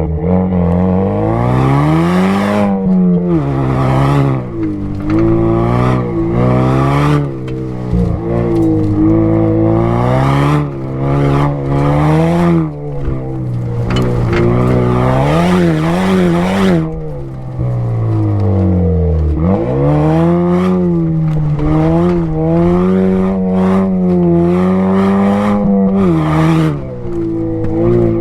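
Exhaust of a Camaro Turbo 1LE's turbocharged 2.0-litre four-cylinder, recorded at the tailpipe while it is driven hard around a rallycross lap. The revs climb and fall over and over as the driver accelerates, lifts and shifts, with short lifts every few seconds. About nineteen seconds in the revs drop very low before pulling up again.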